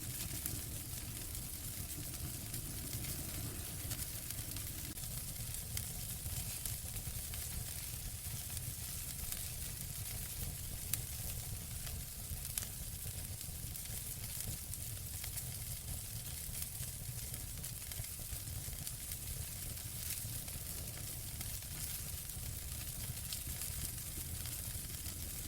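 Wood fire burning in a fireplace: a steady hiss with scattered small crackles and pops throughout, and two sharper cracks near the middle.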